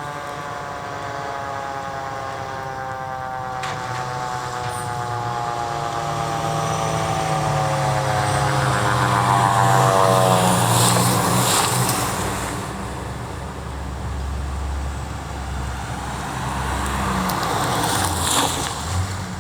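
A siren slowly falling in pitch and fading over the first several seconds, like a mechanical siren winding down, as emergency vehicles respond. Then heavy truck engine and road noise swell as a fire engine goes by, loudest about halfway through, with a smaller swell near the end.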